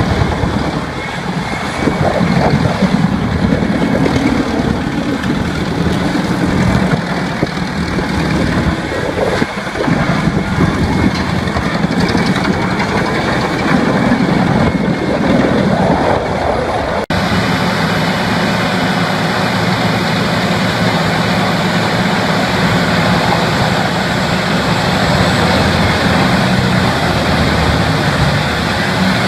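Heavy machinery running under a loud, continuous engine sound. About two-thirds of the way through it cuts abruptly to a steadier, evenly humming machine.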